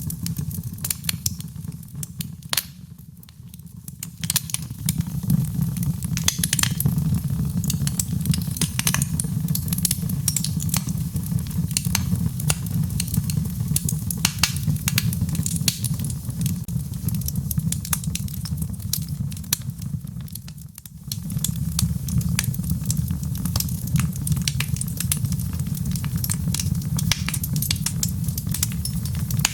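Wood fire crackling in a fireplace: frequent sharp pops and snaps over a steady low rumble of the flames. The rumble dips briefly about three seconds in and again around twenty seconds.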